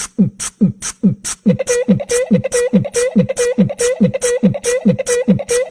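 A fast, even beat of deep thumps that drop in pitch, about three a second, each with a crisp hiss on top, in the manner of beatboxing or a drum machine. About a second and a half in, a steady buzzing tone joins and holds under the beat.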